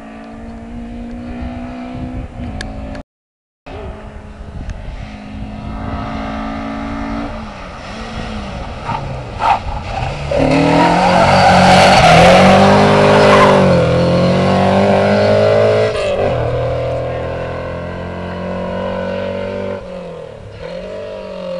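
Competition Mk2 Ford Escort engine under hard acceleration, loudest as the car passes through a hairpin and pulls away. The engine note drops and climbs again twice, then fades as the car climbs away. The sound cuts out completely for about half a second near the start.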